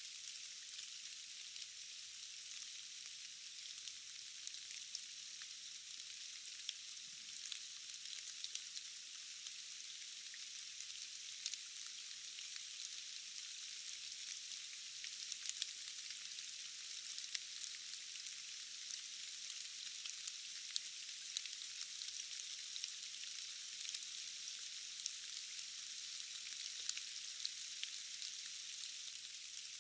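Steady rain falling, an even hiss with many scattered sharp ticks of individual drops.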